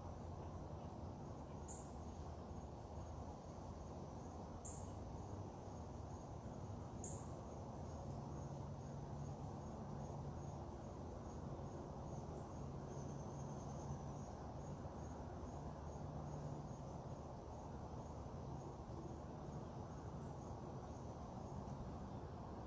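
Faint insect chirping in a rapid, even pulse, with three short, sharp high chips from a bird in the first seven seconds, over a steady low background hum.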